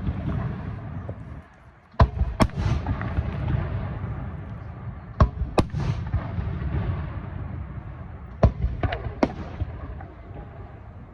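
Aerial fireworks shells bursting: sharp booms, mostly in pairs a few seconds apart, each followed by a long low rolling echo.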